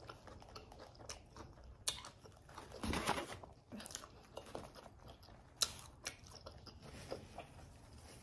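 Close-up mouth sounds of chewing potato chips and a sandwich, with scattered sharp crunches, the loudest about five and a half seconds in.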